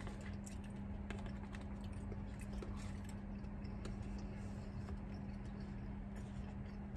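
Quiet chewing with scattered small clicks from a fork on a paper plate, over a steady low hum.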